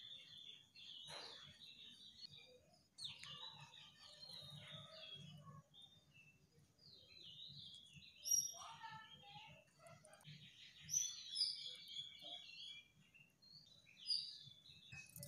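Several small birds chirping and calling, short high notes that rise and fall, with a rapid trill about ten seconds in.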